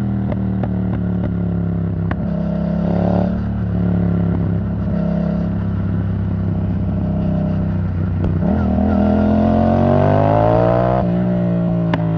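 Yamaha MT-07's parallel-twin engine through an Arrow Thunder titanium exhaust, cruising at a steady note with a short blip of throttle. About eight seconds in it accelerates, the pitch rising for a few seconds, then drops suddenly as the rider shifts or rolls off.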